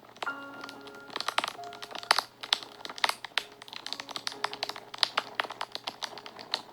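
Wood fire crackling and popping, with many sharp, irregular pops every second. Soft, sustained background music notes begin just after the start.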